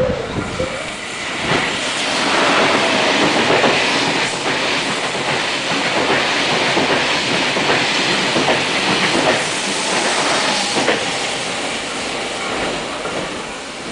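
A KTX-Sancheon high-speed train passing close at speed: a loud, steady rush of wheel and air noise with scattered rail-joint clicks. It builds about a second and a half in and eases off near the end.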